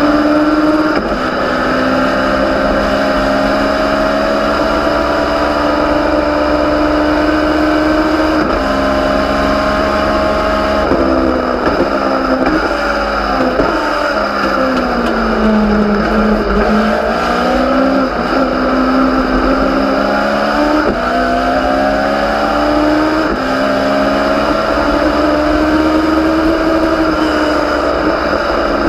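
Legends race car engine, a Yamaha 1250 cc four-cylinder motorcycle engine, running at racing revs under load. Its pitch holds high with a few gear changes, sags to its lowest about halfway through as the car slows for a corner, then climbs back up as it accelerates out.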